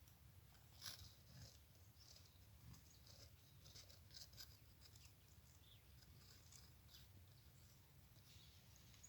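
Faint, scattered short chirps and ticks of small wild birds over a low steady rumble.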